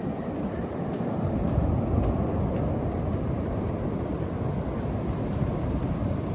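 Low, steady rumble of ocean surf mixed with wind buffeting the phone's microphone, growing slightly louder about a second in.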